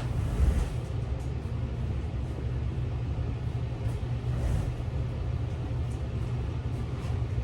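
Steady low rumble, with a brief louder low thump about half a second in.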